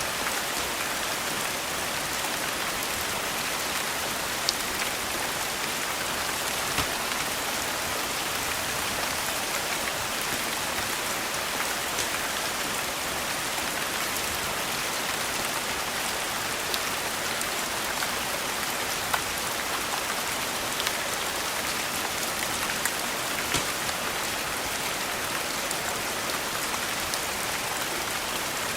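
Steady rain hissing without a break, with a few sharp clicks now and then.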